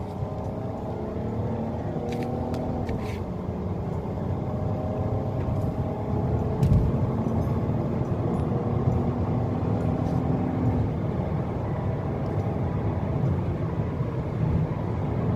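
Hyundai Azera's V6 engine pulling the car under acceleration on a road test, its note rising over the first few seconds and then holding, over low road rumble, with one thump about halfway through. It runs smoothly, with no misfire or jerking, after injector and throttle body cleaning and a new ignition coil.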